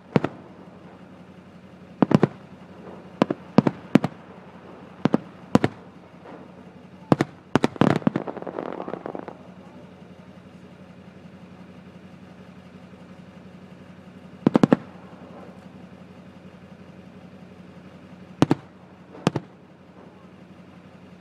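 Fireworks shells bursting: a string of sharp, irregularly spaced bangs, with a crackling burst about eight seconds in, a lull of a few seconds, then a double bang and two more near the end.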